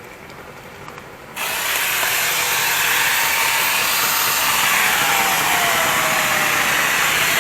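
Bosch angle grinder fitted with a mini chainsaw attachment starts up suddenly about a second and a half in and runs loud and steady, cutting into a thick branch, with a faint whine that sinks in pitch partway through. The branch is too big for this light-duty tool.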